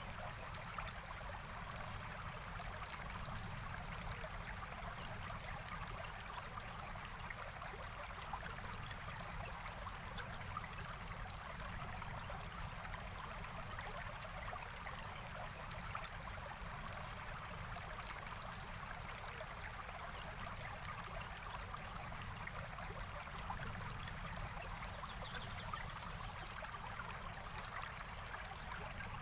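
A forest stream flowing and trickling steadily, an even rushing babble of water. A few brief faint clicks stand out now and then.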